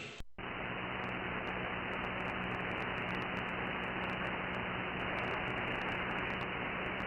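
Radio receiver hissing with steady band static on the CB skip band, no readable station coming through, with a faint low hum underneath. The hiss comes in after a brief dropout a fraction of a second in and sounds narrow and muffled, with no treble.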